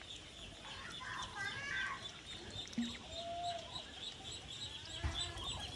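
Birds chirping in quick repeated high notes, with a few lower calls from chickens.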